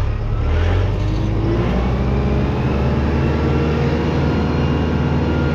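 Farm tractor engine running steadily after a repair, a low drone that does not let up.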